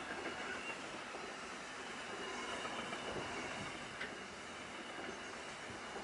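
Long intermodal freight train passing at speed, its container and trailer wagons rolling by with a steady rumble and rattle of wheels on rail. A thin, steady high whine from the wheels runs over it, and there is a brief click about four seconds in.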